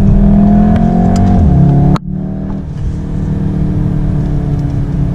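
Cabin sound of a Volkswagen Golf R's turbocharged 2.0-litre four-cylinder pulling under acceleration, its note rising. About two seconds in, the sound drops abruptly to a quieter, steady engine and road drone.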